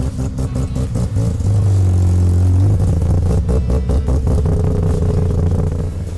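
Car engine running loud and low, with two spells of rapid pulsing as it is revved.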